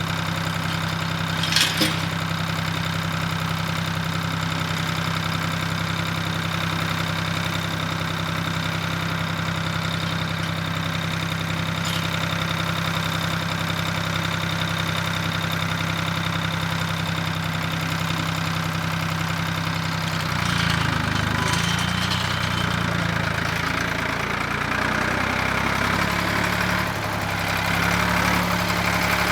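An engine running at a steady speed, with a sharp click about two seconds in. After about twenty seconds its note turns uneven and wavers.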